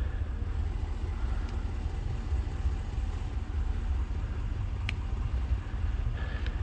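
A vehicle driving, a steady low rumble, with one sharp click about five seconds in.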